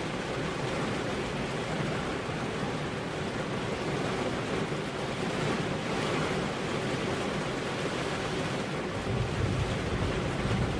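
Steady rain and wind ambience, an even rushing hiss, with a low rumble of thunder swelling near the end.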